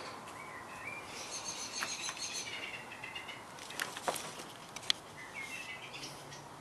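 A songbird singing twittering phrases: one run of about three seconds, then a shorter one near the end. A few sharp clicks fall in between, the loudest just before five seconds in.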